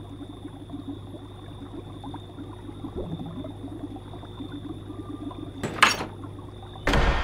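Aquarium water bubbling and trickling over a steady electrical hum. Two sudden loud noises break in near the end, the second lasting longer.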